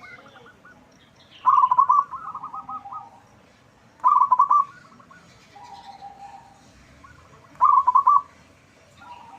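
Zebra dove (perkutut) singing: three loud, rapid stuttering cooing phrases about three seconds apart, with softer cooing between them.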